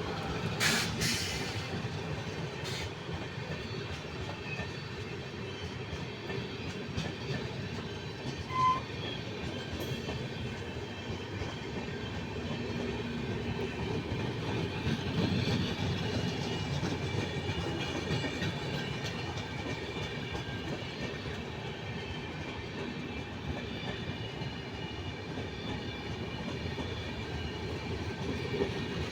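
Indian Railways train running on the track: a steady rumble of wheels on rails, with a few sharp clicks about a second in and one brief high tone near nine seconds.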